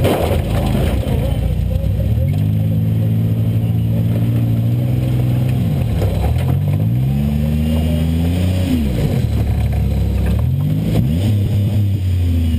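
Buick LeSabre's 3.8-litre V6 heard from inside the car, revved up, held and let fall three times as the car accelerates and backs off. There are short knocks at the very start and again about eleven seconds in.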